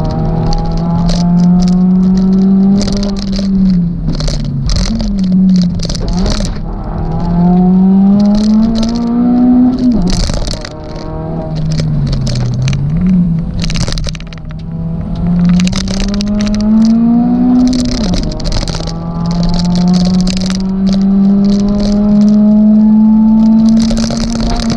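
Suzuki Swift Sport ZC32S's four-cylinder engine running hard on a hill climb, its pitch climbing and dropping back several times as it is driven through the gears. Short crackling, scraping noise sounds over it throughout.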